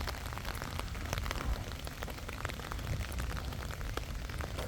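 Steady patter of rain, with dense irregular drop ticks over a low rumble.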